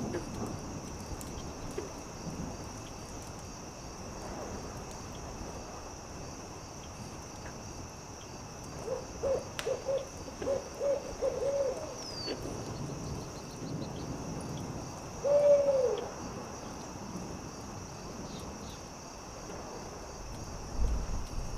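An owl hooting: a run of about six short hoots about nine seconds in, then a few seconds later one longer, louder hoot. Underneath are a steady high insect drone and scattered small crackles from a campfire.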